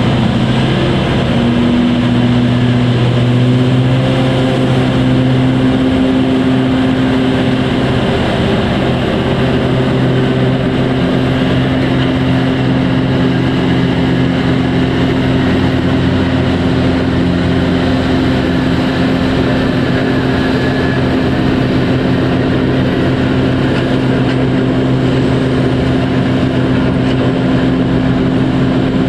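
Large diesel engine of heavy mining equipment running steadily under power, a loud low drone with a strong even tone. Its pitch steps up slightly about a second in, then holds.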